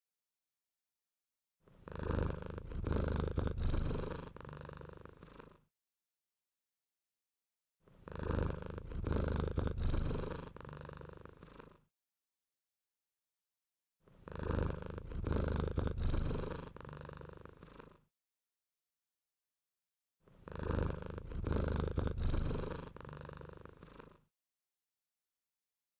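Cat purring in four identical stretches of about four seconds each. Each stretch starts and stops abruptly, with complete silence between, as if one recording were looped.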